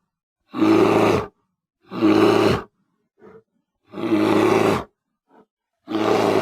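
Grizzly bear roar sound effect played four times in a row, each roar just under a second long with silent gaps between, and two short faint grunts in the gaps.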